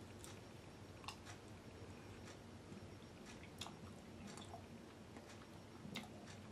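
A man chewing a mouthful of food, faint, with a few small sharp clicks scattered through it and the sharpest near the end.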